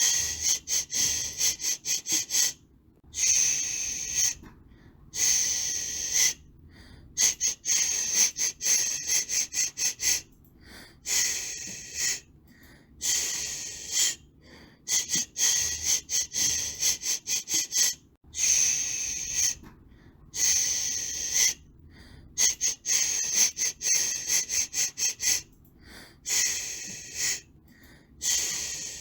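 Shushing to soothe a baby: bursts of hiss, some in quick runs of short 'shh's, others held for a second or two, with brief silent gaps between.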